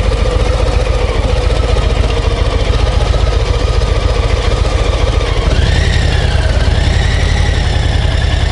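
Harley-Davidson Low Rider ST's Milwaukee-Eight 117 V-twin running with a steady, low, pulsing rumble. A wavering higher tone rides over it from about halfway through.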